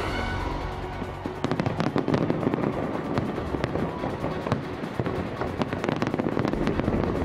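Fireworks going off in a dense barrage of sharp bangs and crackles, starting about a second and a half in, over steady music.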